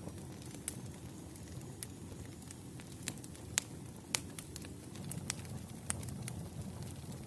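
Wood campfire crackling: a steady low rumble of burning logs with scattered sharp pops and snaps, the loudest two a little past halfway.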